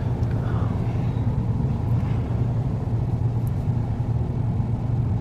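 Steady low rumble of a car's engine idling, heard from inside the car.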